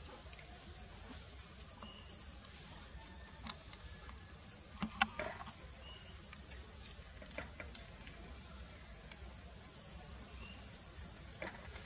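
A bird's short, high chirp repeated three times, about four seconds apart, with a few faint clicks and taps in between.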